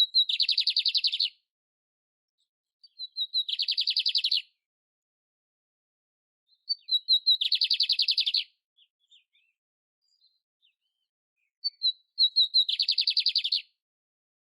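Canário-império singing four separate phrases a few seconds apart, each a few short high notes leading into a fast, buzzy trill about a second long.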